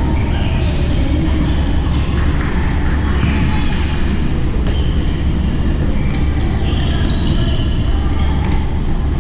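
Badminton rally in a sports hall: sharp racket-on-shuttlecock strikes every second or two and short squeaks of shoes on the court floor, over a loud, steady low hum.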